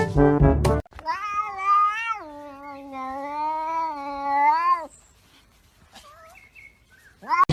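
Brass music cuts off just under a second in, then a cat gives one long drawn-out yowl of nearly four seconds that drops in pitch partway and wavers, followed by a couple of faint short calls.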